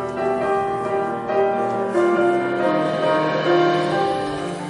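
Instrumental music led by piano, playing a melodic passage of held notes ahead of a choir's entry.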